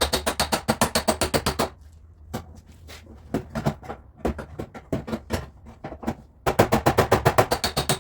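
A small hammer tapping metal on a car body panel in a fast even series, about eight strikes a second. After about two seconds it slows to scattered, uneven taps, then picks up the fast series again about six and a half seconds in. A low steady hum runs underneath.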